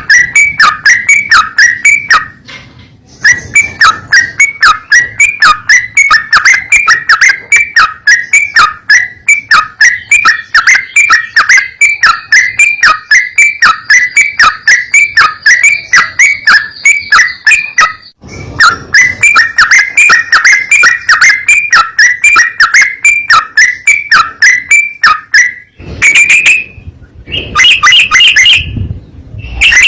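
Yellow-vented bulbul (trucukan) calling: a long, rapid run of short, falling whistled notes, about three a second, with brief breaks twice, and a few different calls near the end.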